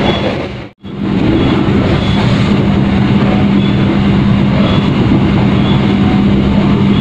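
Passenger train running along the track, heard from inside the carriage: a steady noise of wheels on rails with an even hum underneath. The sound drops out completely for a moment just under a second in, then carries on unchanged.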